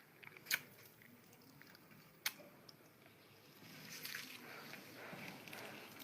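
A person eating, chewing food close to the microphone, with a few sharp crunchy clicks, the clearest about half a second in and just over two seconds in.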